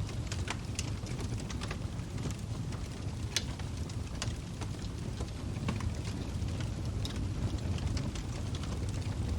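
Log fire burning: irregular sharp crackles and pops of burning wood over a steady low rumble of the flames, with one louder pop about three and a half seconds in.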